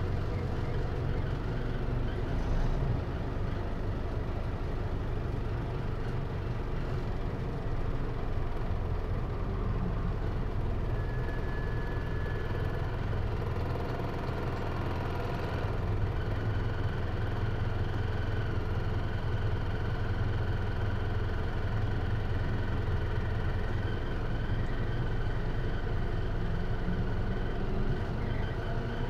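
Hino Liesse microbus's J05C four-cylinder diesel engine running, heard from inside the cabin, with a steady low hum; its tone becomes clearer and stronger from about halfway through.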